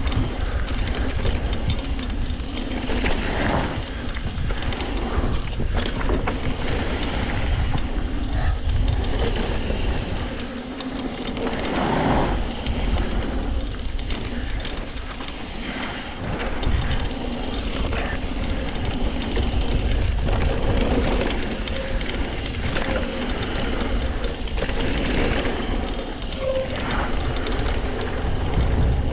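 Mountain bike descending a bike-park trail: a steady rumble of wind on the microphone and tyres rolling over dirt, with the bike rattling and clicking throughout.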